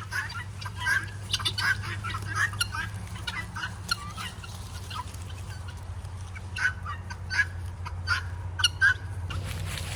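A flock of guinea fowl calling, with many short, scattered calls overlapping throughout, over a steady low hum.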